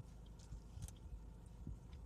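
Quiet eating sounds: faint chewing with a couple of short, light clicks, like a utensil or food being handled, over a low steady hum.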